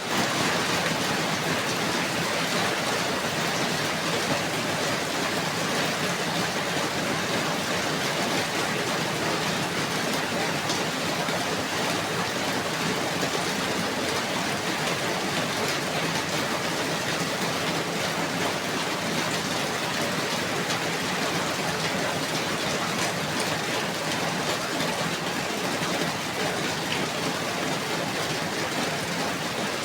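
Steady rainfall, an even hiss of many drops with faint scattered patters on a surface.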